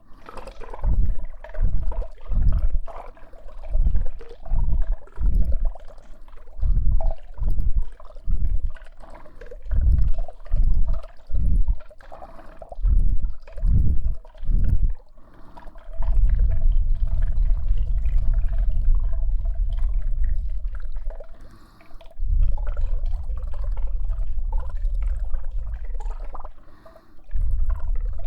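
Hands working directly over the ear microphones of a KU100 binaural dummy head: rhythmic muffled whumps, about two a second, then about halfway through a continuous low rumbling rub.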